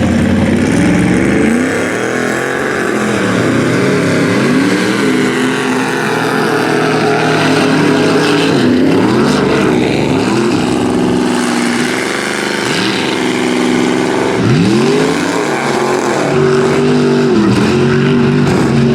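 Big-block V8 engine of a mud-bog Ford Ranger revving up and down over and over as the throttle is worked, with a sharp climb in pitch about three-quarters of the way through.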